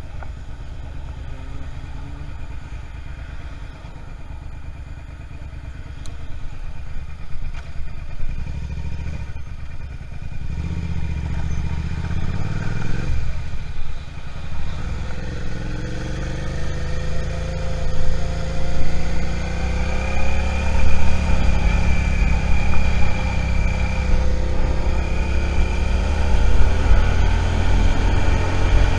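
Suzuki SV650 V-twin motorcycle engine running low and steady, then from about ten seconds in pulling harder, its pitch rising and dropping several times as it speeds up.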